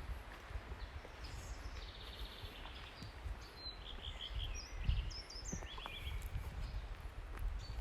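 Several small birds singing in a forest: short high chirps and quick trills coming one after another, over a low rumble with a few soft thumps.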